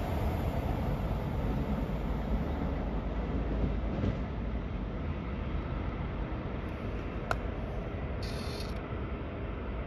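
Rumble of a departing test train hauled by Class 43 HST diesel power cars, fading steadily as it recedes. There is a single sharp click about seven seconds in.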